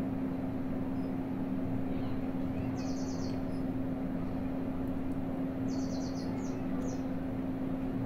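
Small bird chirping in brief, high, rapid trills a few times over a steady low hum.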